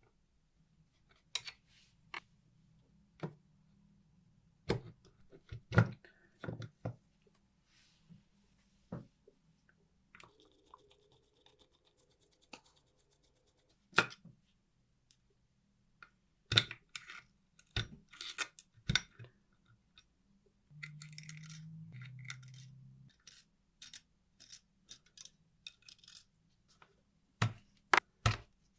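Small metal parts and hand tools being handled on a bench: scattered clicks, taps and clinks at irregular intervals, with a short low hum lasting about two seconds around two-thirds of the way through.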